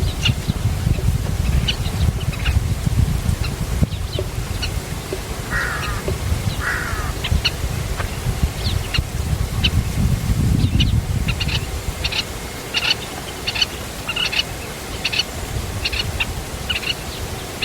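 Birds calling: two short rasping calls about six seconds in, then a run of quick high chirps repeating through the second half. Wind rumbles on the microphone under them, easing after about eleven seconds.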